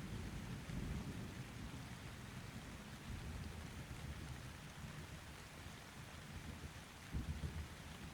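Thunderstorm: steady rain with distant thunder rumbling low, fading over the first second, then a short rumble again near the end.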